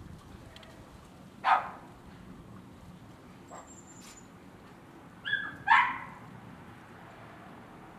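A dog barking: one sharp bark about a second and a half in, then a short high yip followed at once by another bark a little past the middle.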